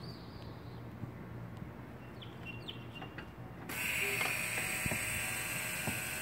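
Chevrolet Cruze engine started after a radiator hose replacement, coming on suddenly about two-thirds of the way in and running steadily with a hiss. Before that, faint bird chirps.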